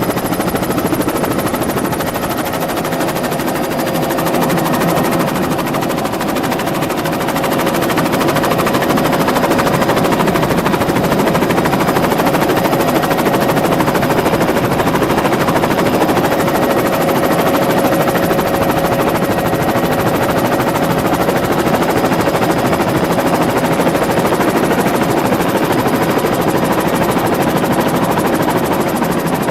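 Helicopter in flight: steady rotor and engine noise with a rapid, even beat of the blades and a steady tone running through it.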